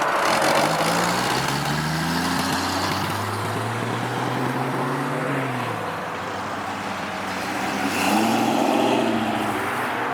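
Car engines accelerating hard, the pitch climbing through the first few seconds and falling away, then another engine revving up near the end.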